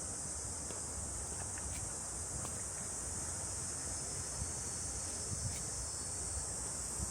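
A steady, high-pitched chorus of summer cicadas that runs on without a break, with soft footfalls on the trail underneath.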